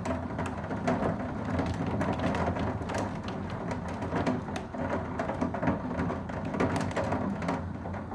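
Heavy storm rain with hail pelting a surface: a dense, steady patter of many sharp ticks.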